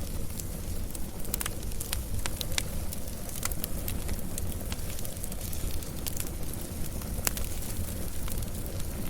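Wood fire burning: a steady low rumble with irregular sharp crackles and pops of burning wood.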